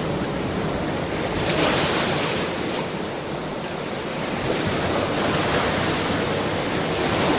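Ocean surf: waves breaking and washing in, a steady rushing noise that swells about a second and a half in and builds again near the end.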